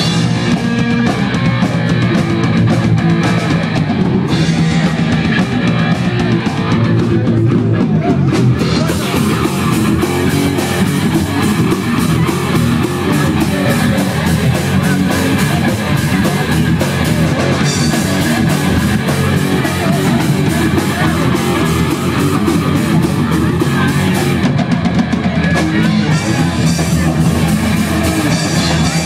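Punk band playing live: loud rock music with electric guitar and drum kit, steady throughout.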